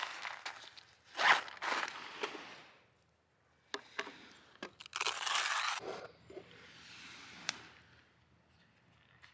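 Bursts of rustling and scraping from something being handled, the loudest about a second in, with a few sharp clicks between them; it quietens near the end.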